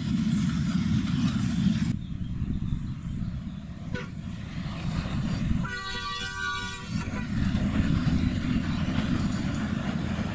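Train running with a steady low rumble; its horn sounds one blast of about a second, a little past the middle.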